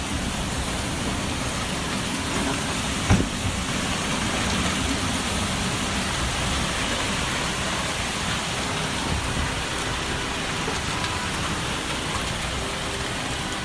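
Storm noise: a steady rush of heavy rain and wind, with one sharp thump about three seconds in.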